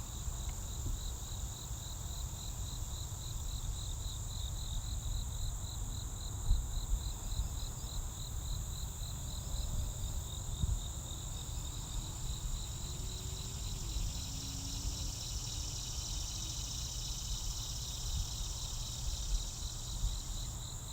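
Crickets chirping in a fast, even pulse, with a second steady high insect trill, over a low steady rumble.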